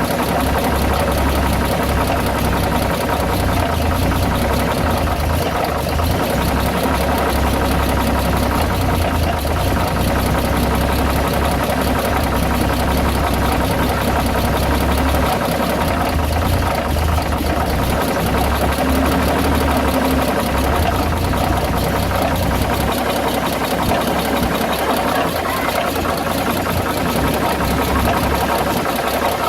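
Dodge WC52's flathead six-cylinder engine running steadily, with a knocking, rubbing mechanical noise in it. The low rumble eases about three quarters of the way through.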